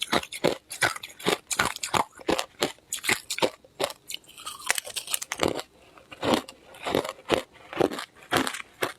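Ice cubes being bitten and crunched between the teeth close to the microphone: a run of crisp crunches, about three a second, thinning out briefly a little before the middle.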